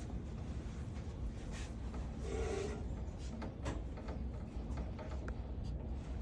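Drill press chuck and collet being tightened by hand on a bit: soft metal rubbing and small clicks over a low steady hum, with a louder rub about two and a half seconds in.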